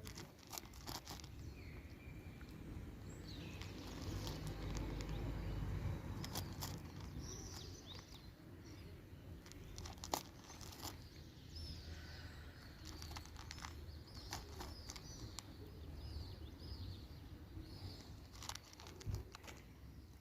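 Small birds chirping in short high calls over a low rumble, with scattered sharp clicks and crinkles, the loudest click about halfway through.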